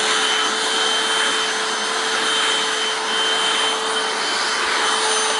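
Hoover WindTunnel Self-Propelled Anniversary Edition upright vacuum (U6485900), its 12-amp suction motor running steadily at full speed, having just been switched on with the hose and upholstery tool attached. A constant rush of air with a steady hum and a high whine.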